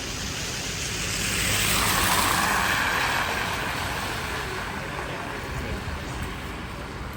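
A road vehicle driving past: its tyre and engine noise swells about a second in, is loudest around two to three seconds, then fades away.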